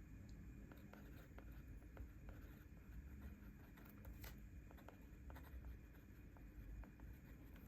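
Faint, scattered small taps and rustles of paper and stationery being handled during journaling, over a low steady room hum.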